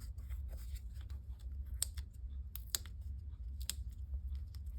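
Paper and card stock being handled: small rustles and scattered sharp clicks, with three louder ticks about a second apart in the middle, over a steady low hum.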